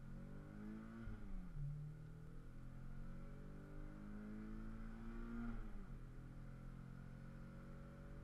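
Renault Sport Clio 172's 2.0-litre four-cylinder engine heard from inside the cabin under hard acceleration. The note rises with the revs and drops sharply at two upshifts, about a second in and again after about five and a half seconds, then climbs again.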